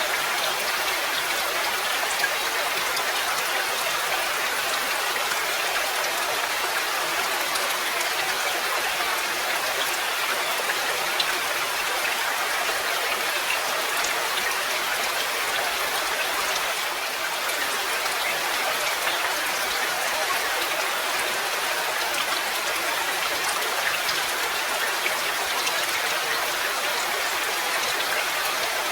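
Steady rain: an even hiss with scattered single drops ticking sharply here and there.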